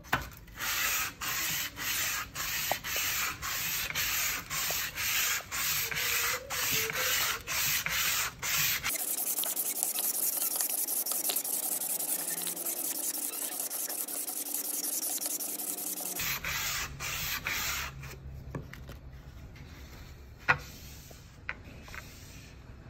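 A steel knife blade being worked by hand with an abrasive, a file or sharpening stone, in rhythmic back-and-forth strokes of about two a second. Partway through, the strokes give way to a steadier continuous hiss for several seconds. A few more strokes follow, then the sound quietens with a couple of light clicks.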